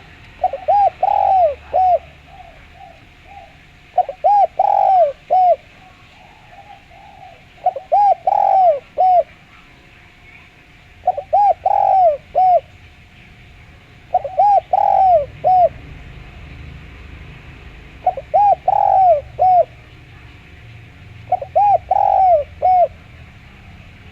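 Derkuku, the Javanese spotted dove, cooing: a clear phrase of four or five quick coos, repeated seven times about three and a half seconds apart.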